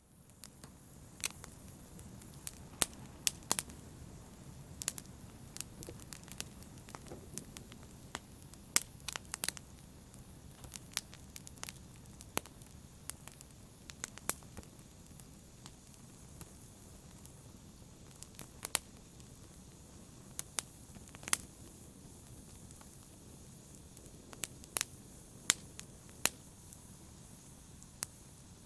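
Wood fire burning in a fireplace: sharp crackles and pops at irregular intervals over a steady low hiss of flames.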